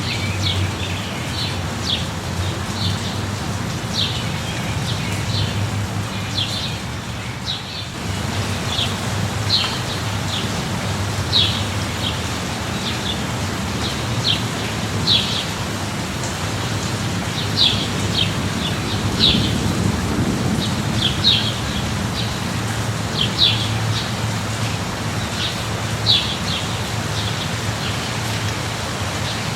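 Steady rain falling, with short high bird chirps every second or so over a steady low rumble.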